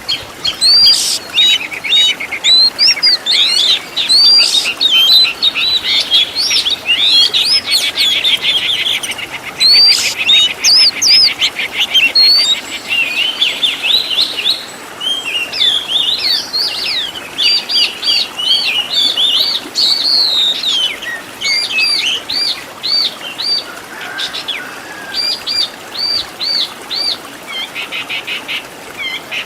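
Oriental magpie-robin (kacer) singing loudly and without pause: a varied run of whistled glides, rapid buzzy trills and quickly repeated looping notes, with phrases borrowed from other birds' songs woven in.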